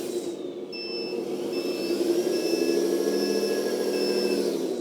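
An RC truck's sound module plays a truck engine sound and a reversing beeper while the truck backs up: five evenly spaced beeps about 0.8 s apart over a steady engine drone that rises a little about two seconds in.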